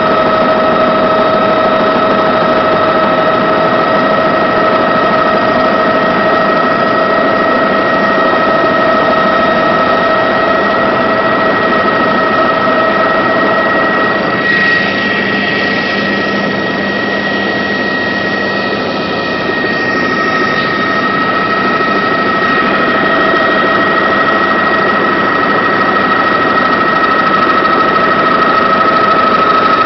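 Helicopter in flight: a steady loud noise with several steady whining tones on top. About halfway through, the lowest whine drops away and the sound shifts for several seconds before settling back.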